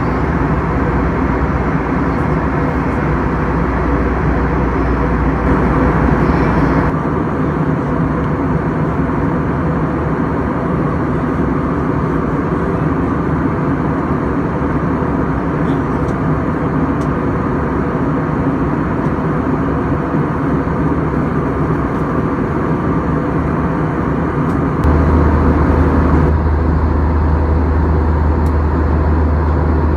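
Steady cabin noise inside a Boeing 737-800 airliner: a constant roar with faint steady hums. The deep rumble underneath drops at about seven seconds and comes back stronger at about twenty-five seconds.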